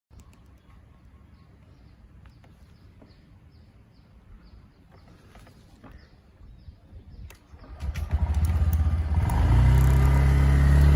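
Birds chirping softly with a few light clicks. About eight seconds in, a motorcycle engine comes in loud and runs, rising briefly in pitch.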